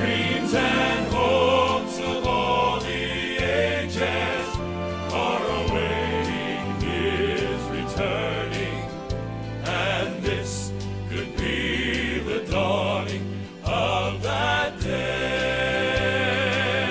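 Live southern gospel music: a male vocal quartet with band, with harmonised singing over a bass line that moves in steady steps.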